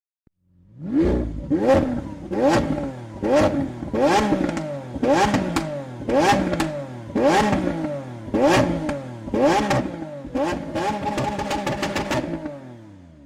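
Car engine firing up and being revved in about ten sharp throttle blips, each climbing in pitch and falling back, then held up for a couple of seconds before it dies away near the end.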